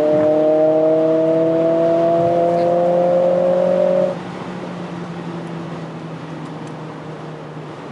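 Mercedes-AMG CLA 45 S's turbocharged 2.0-litre four-cylinder pulling hard in fifth gear at motorway speed, its note rising steadily in pitch. About four seconds in the driver lifts off: the engine drops suddenly to a steady low hum under tyre and wind noise, heard from inside the cabin.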